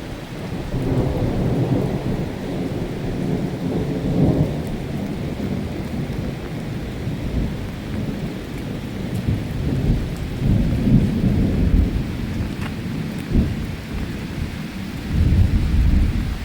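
Rain falling steadily, with deep rumbles that swell and fade several times.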